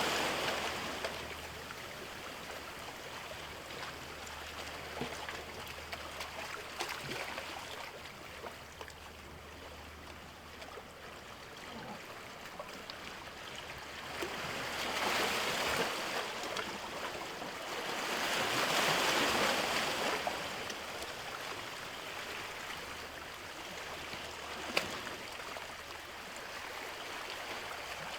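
Sea waves washing in, swelling louder three times, over a low steady hum. A single sharp click near the end.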